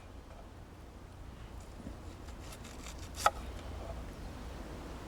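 Knife cutting an onion: faint cutting sounds and one sharp knock about three seconds in.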